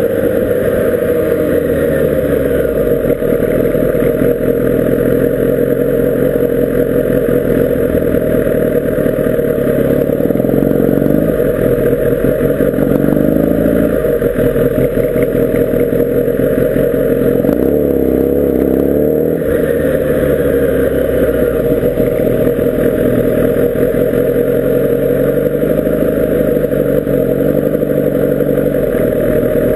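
Kawasaki Ninja ZX-10R SE's inline-four engine running through town traffic at modest revs, its note rising and falling over and over with the throttle, heard from an onboard camera on the moving motorcycle.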